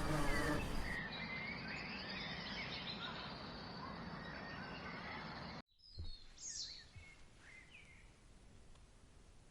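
Birds chirping and calling over a steady background hiss. About two-thirds of the way through the sound cuts off abruptly, then resumes quieter with a few scattered chirps.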